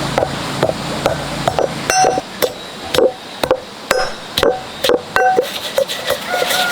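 Kitchen food-preparation strikes, about two a second, each with a short ringing note. It is steady pounding or chopping work.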